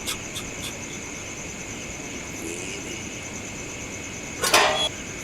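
Steady, high-pitched insect chirring, with a few sharp clicks right at the start and one loud, sudden noise about four and a half seconds in.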